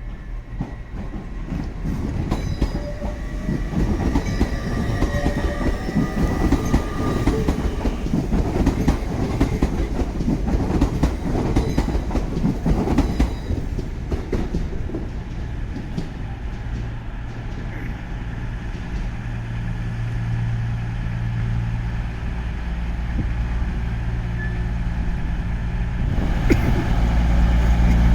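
A train moving through a station, its wheels clattering over the rails for the first half. After that a diesel engine's steady low hum takes over and grows louder near the end.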